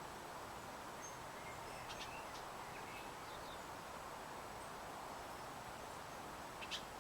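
Faint, short chirps from small birds over a steady background hiss, with one brief sharp high sound near the end.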